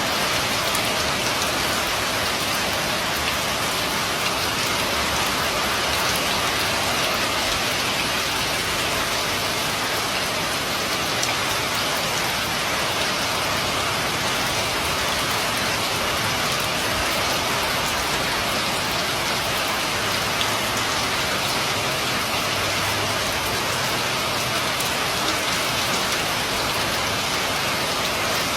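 Steady rain falling on a roof and pavement, an even hiss with a sprinkle of individual drop taps.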